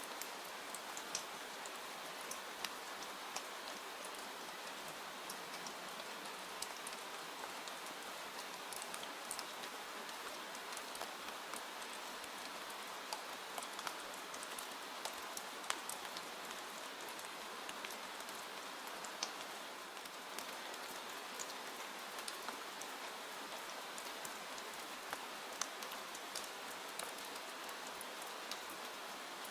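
Steady rain, an even hiss with many separate drops ticking sharply throughout.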